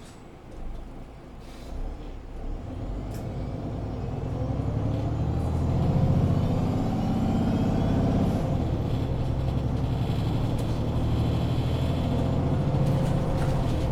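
MAN Lion's City 19 EfficientHybrid articulated bus pulling away. A few short clicks come first, then the diesel engine and Voith automatic gearbox rise in pitch as it accelerates. From about six seconds in, it runs loud and steady under load.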